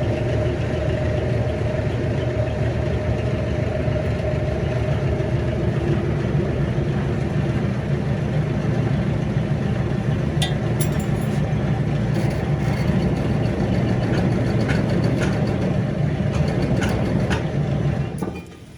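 Steady running of an engine or heavy machine, a dense low hum, with light metallic clicks and taps from about halfway through. It cuts off suddenly shortly before the end.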